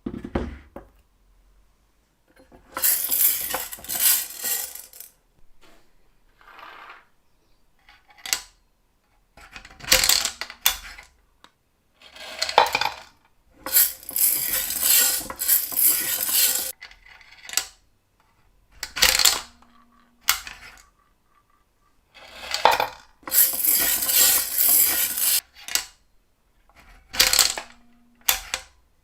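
Restored 1930s Tol Boul coin-operated lottery machine being worked: repeated bursts of clinking, rattling clatter a few seconds long, as coins drop and the balls are mixed, with sharp single clicks of the mechanism between them.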